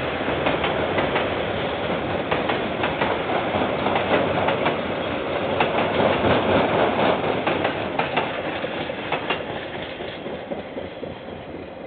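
KiwiRail train wagons rolling past, their wheels clicking rhythmically over the rail joints. The sound fades steadily over the last few seconds as the train moves away.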